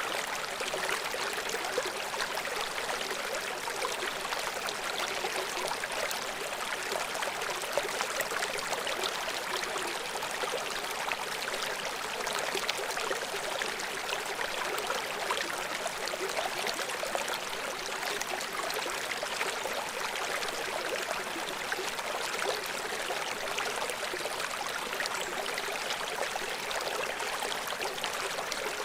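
River water flowing over rocks below a small waterfall: a steady rushing, splashing sound with fine trickles and gurgles in it.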